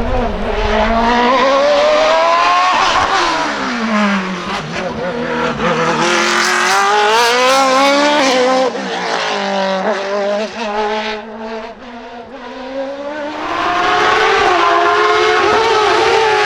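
Race car engine at high revs on a hill climb: the note climbs and drops again and again with gear changes and lifts. The sound fades around eleven to twelve seconds in, then swells back loud.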